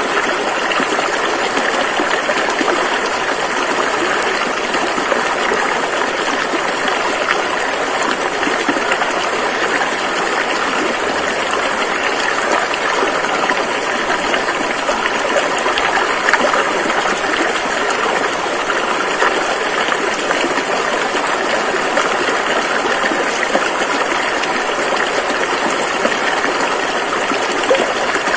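River water rushing and gushing steadily, a loud, even wash of flowing water.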